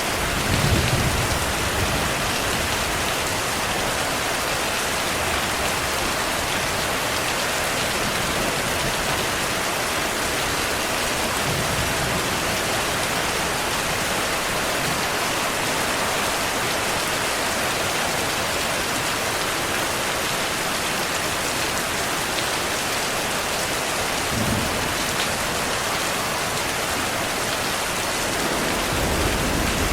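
Steady heavy rain, an even hiss, with distant thunder rumbling low: a brief rumble about a second in, fainter ones about midway and later, and a longer rumble building near the end.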